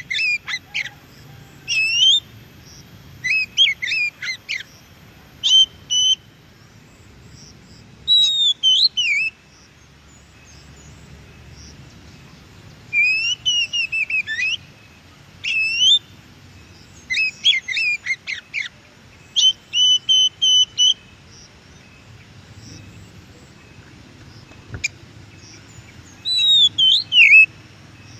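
Oriental magpie-robin (kacer) singing: short phrases of clear whistled notes and quick trills that slide up and down, coming in bursts with pauses of a second or more between them.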